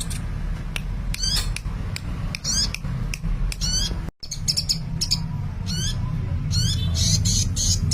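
A sunbird singing busily: quick, high-pitched chirps and rippling trilled phrases that follow one another without pause, over a steady low hum. The sound cuts out for an instant about four seconds in.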